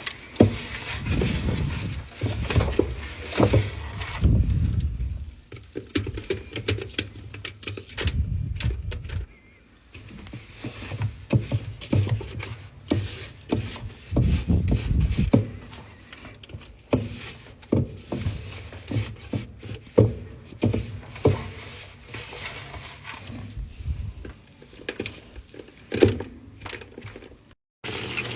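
Irregular soft thumps, knocks and rustling as laundry and washing-machine parts are handled, with many short clicks.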